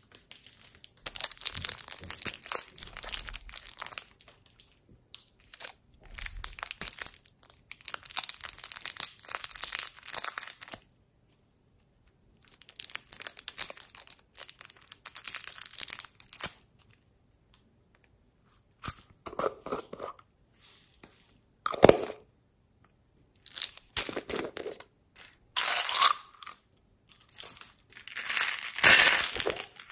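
Slime being squeezed and stretched by hand, crackling and popping in bursts of a few seconds with short pauses between; in the second half the bursts are shorter and fuller, with one sharp snap.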